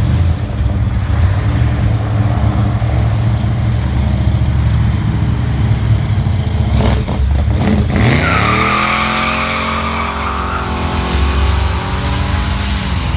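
A loud car engine running at a steady low pitch, then about eight seconds in revving sharply up and holding at high revs for several seconds with tires squealing, dropping back near the end: a burnout.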